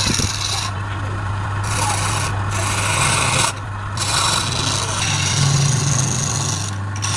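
A lathe is running with a steady low hum while a tool or abrasive is pressed against the spinning workpiece. It makes a rasping, scraping hiss that breaks off for a moment four times as contact is lifted and resumed.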